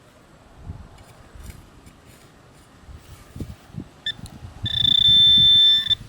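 Metal detector giving a short beep, then a steady high-pitched electronic tone for just over a second that cuts off near the end, signalling a metal target close by. Soft scraping and rustling of soil being worked run underneath.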